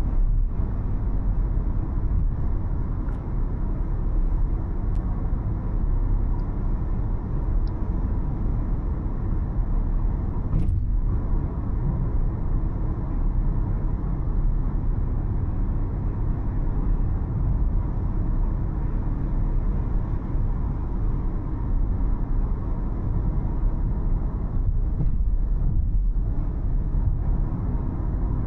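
A car driving steadily, with a constant low rumble of engine and road noise.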